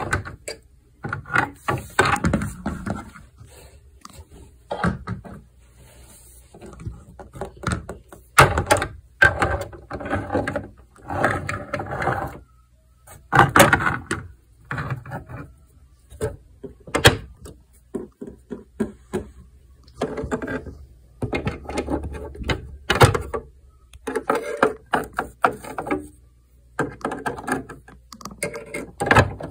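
Plastic toy horses, rider figures and toy stable stall gates being handled: scattered clicks, knocks and clatters, several of them sharp, among stretches of indistinct, voice-like sound.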